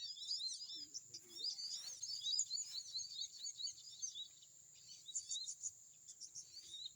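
Sunbirds calling in rapid, high-pitched twittering chirps, dense at first and thinning out after about four seconds, over a steady high-pitched whine.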